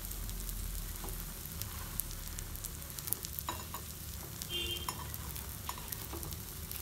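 Egg paniyaram frying in oil in the cups of a paniyaram pan, with a steady sizzle. Scattered light clicks come from a spoon touching the pan as the balls are lifted out.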